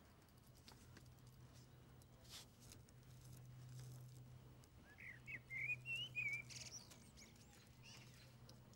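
A small songbird sings one short, quick warbling phrase about halfway through, with a few faint high chirps after it, over a faint steady low hum.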